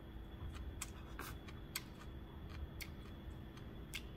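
Faint, irregular clicks and ticks of someone chewing a mouthful of seasoned wild greens, over a low steady hum.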